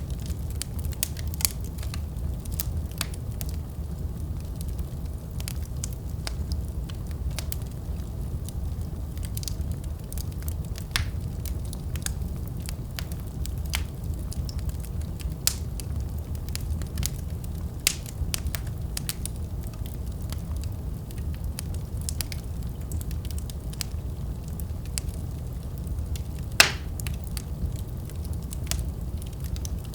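Fireplace fire crackling: irregular sharp pops over a steady low rumble of the flames, with one louder pop near the end.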